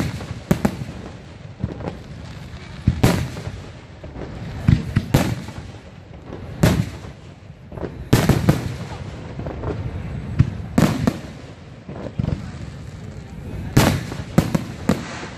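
Aerial firework shells bursting overhead: a long run of sharp bangs at uneven spacing, some coming in quick clusters of two or three, each trailing off in a low echo.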